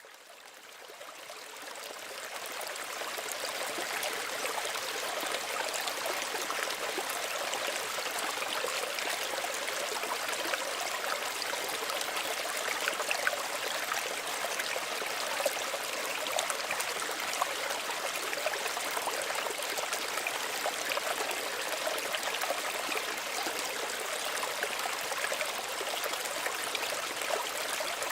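Small stream of running water, a steady trickling, babbling flow. It fades in over the first two or three seconds, then stays even.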